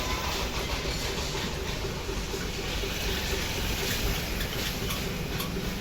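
An engine running steadily, with a faint regular pulsing and a few light clicks.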